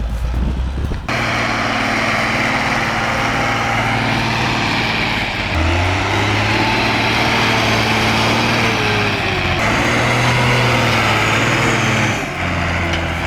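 Ursus 1614 tractor's diesel engine running hard under load while pulling an overloaded haul of logs, strain the narrator blames for wearing out its clutch and transmission. The engine note steps up and down several times.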